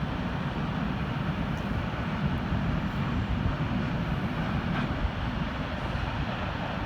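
A passing train making a steady low rumble.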